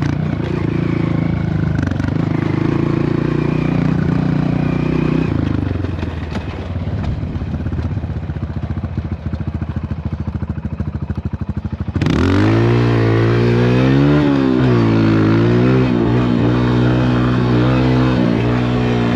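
Dirt bike engine under way. It holds a steady note for about five seconds, then drops to a low, pulsing off-throttle or idle note. About twelve seconds in it opens up again and revs up and down as the bike is ridden.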